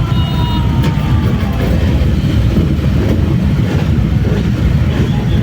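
Loud low rumble of motor vehicle engines, with one engine note falling slowly in pitch over the first two seconds.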